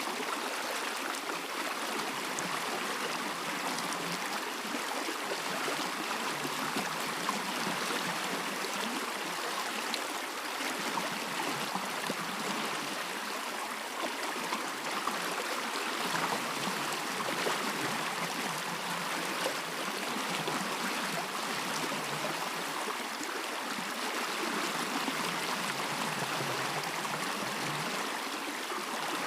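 A stream flowing steadily, its water running and gurgling with no change in level.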